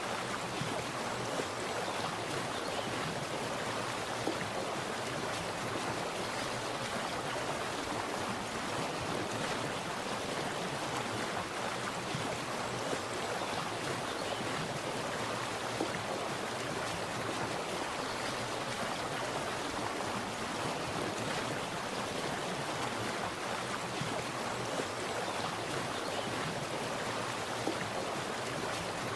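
Water splashing and running steadily, an even rushing with no pauses.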